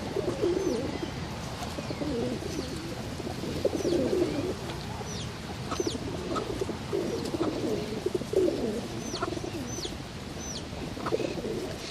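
Doves cooing over and over in wavering low phrases, with a small bird's short high chirps repeating throughout.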